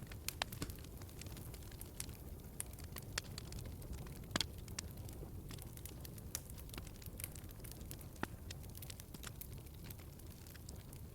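Wood fire crackling in a fireplace: irregular pops and snaps over a low steady rumble, with the sharpest pops about four seconds in and again past eight seconds.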